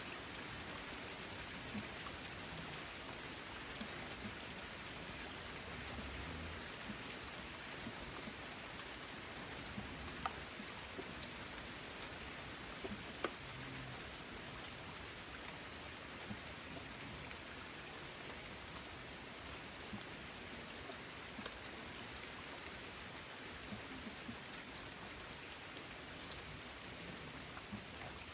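Steady rain: an even hiss with scattered sharp ticks of single drops, and a thin steady high tone beneath it.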